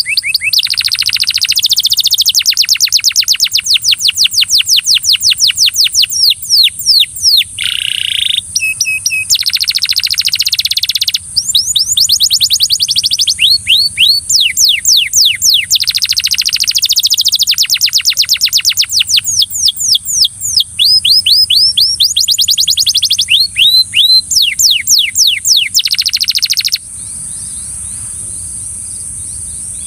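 Belgian canary singing a long song of fast trills: runs of rapidly repeated sweeping notes that change in speed and pitch from phrase to phrase. The song stops about 27 seconds in, leaving only a steady high hiss.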